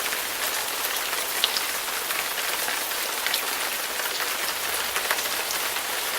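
Rain sound effect: steady rain falling, an even hiss dotted with many small drop ticks.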